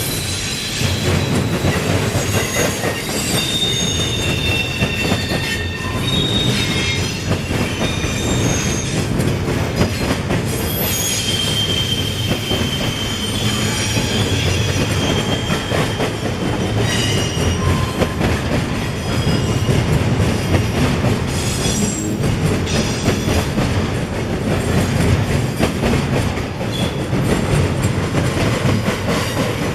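Freight train cars rolling past with a steady rumble and clatter. Wheel squeal comes in thin high tones now and then, most plainly about three to six seconds in and again from about eleven to sixteen seconds.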